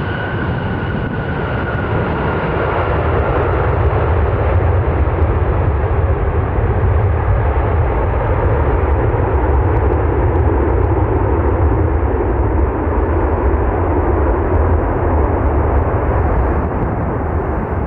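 Jet airliner's engines passing: a steady rushing roar that swells over the first few seconds and eases a little near the end, with a high whine fading out early.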